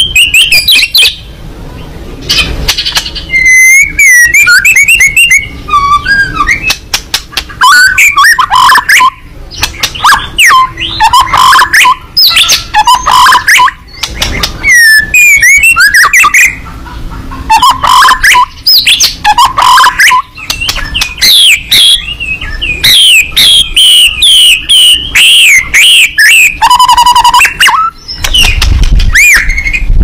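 White-rumped shama singing loudly and almost without a break: a varied song of clear whistles that rise and fall, mixed with rapid chattering notes and trills, with a few short pauses.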